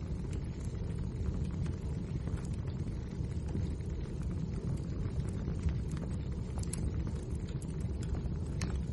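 Crackling wood fire: a steady low rumble of burning logs with frequent sharp crackles and pops throughout.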